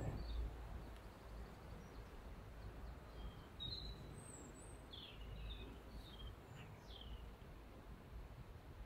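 Faint outdoor ambience: a low rumble with scattered short bird chirps, most of them in the middle few seconds.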